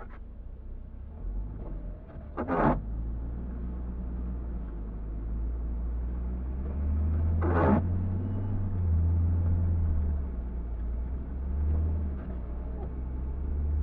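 A car driving through a snowstorm, heard as a steady low rumble that grows a little stronger about halfway through. Two short, sharp sounds stand out about five seconds apart.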